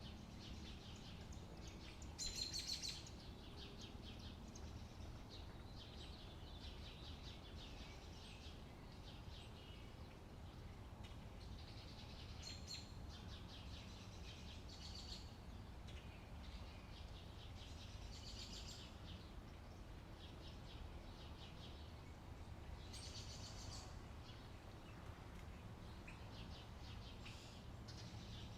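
Birds chirping in short, rapid trills every second or two, one louder burst about two and a half seconds in, over a steady low background rumble.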